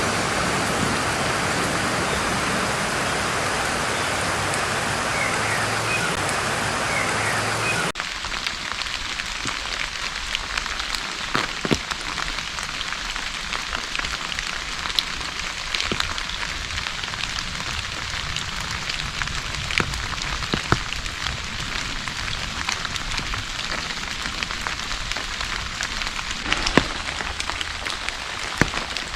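Rain falling. It starts as dense, steady heavy rain, then about eight seconds in cuts abruptly to lighter rain with individual drops ticking sharply on a surface.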